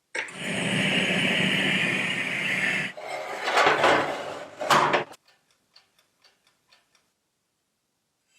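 A workshop tool runs with a steady, noisy whir for about three seconds, then gives a few shorter, uneven surges and stops about five seconds in. Faint, regular ticks follow, about four a second, fading out.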